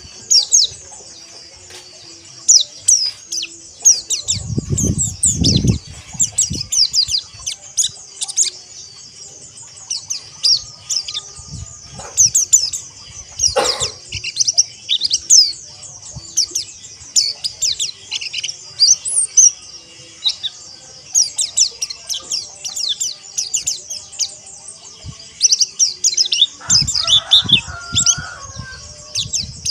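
A flock of white-eyes (pleci) chattering together: a dense, unbroken stream of quick, high, falling chirps and twitters, the rapid 'ngeriwik' chatter used to prompt caged white-eyes to sing. Two short bursts of low rumbling noise come a few seconds in and again near the end, with a single sharp knock about midway.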